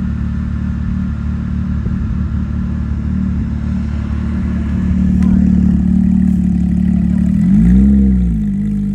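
A car engine running steadily, growing louder about five seconds in, with one quick rev that rises and falls in pitch near the end.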